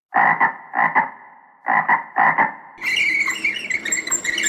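Frogs croaking: four separate croaks in the first three seconds, then a dense chorus of quick, higher-pitched frog calls.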